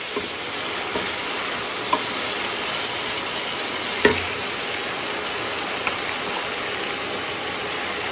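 Chopped tomatoes, bay leaves and whole spices sizzling in oil in a kadai, stirred with a wooden spatula. The spatula knocks against the pan a few times, loudest about four seconds in.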